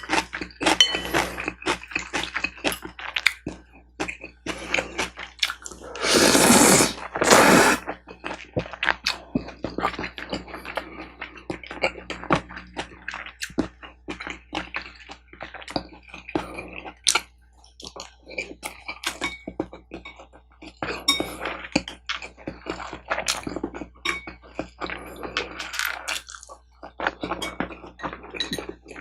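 Close-miked eating sounds: chewing and mouth smacks with many small clicks of utensils, and two loud slurps about six and seven seconds in.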